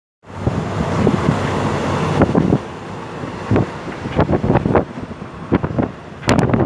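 Wind buffeting the microphone over the rumble of a moving train: a steady rush for about two seconds, then irregular gusts.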